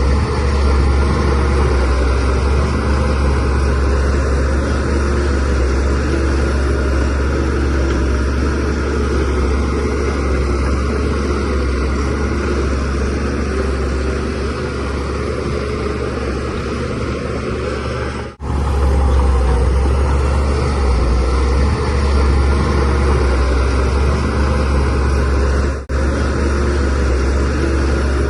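DH17C3PRO bulldozer's diesel engine running steadily with a deep drone. The sound cuts out for an instant twice, about two-thirds of the way through and near the end.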